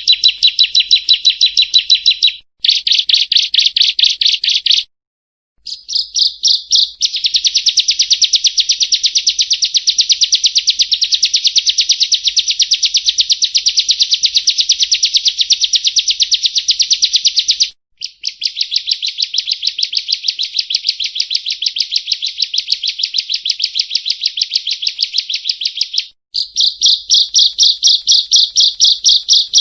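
Prinia (perenjak) singing: long runs of rapid, evenly repeated high chirps, broken by a few short pauses.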